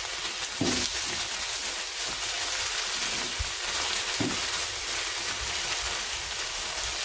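Crushed onions sizzling steadily in hot oil in a wok, stirred with a spatula.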